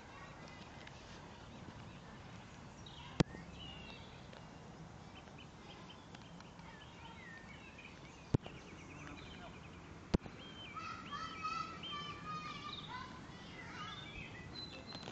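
Small birds chirping and warbling in the garden, the song growing busier in the last few seconds, over a faint steady outdoor background. Three sharp clicks stand out above it.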